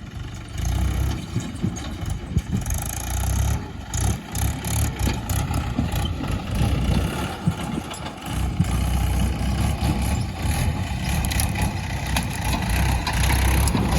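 Tractor engine running, its level rising and falling unevenly.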